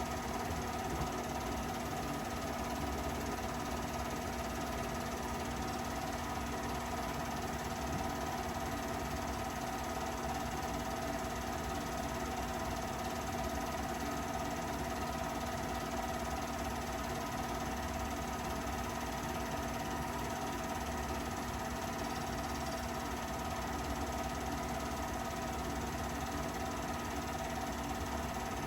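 An engine running steadily at idle, with a fast even pulse and a steady hum that does not change.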